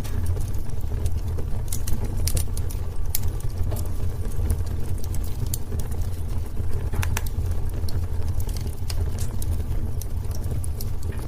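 Wood fire in a fireplace crackling: irregular sharp pops and snaps, some close together, over a steady low rumble.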